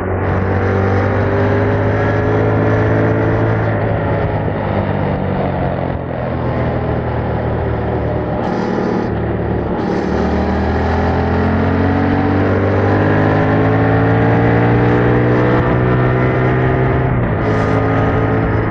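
Yamaha MT-07's 689 cc parallel-twin engine through its stock exhaust, pulling under load as the bike rides: its pitch climbs slowly in several runs, with brief dips between them that fit gear changes. Wind and road noise run underneath.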